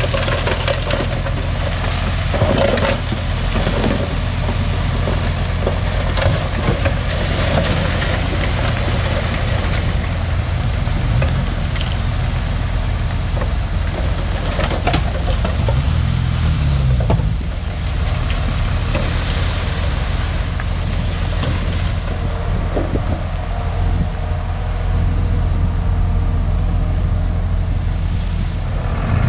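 Komatsu D51PX bulldozer's diesel engine running steadily under work, its pitch rising and falling briefly about halfway through, with a few scattered knocks.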